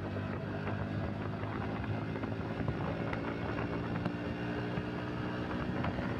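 Bajaj Pulsar NS125's single-cylinder engine running steadily while the motorcycle rides along the road, with the road and wind noise of riding.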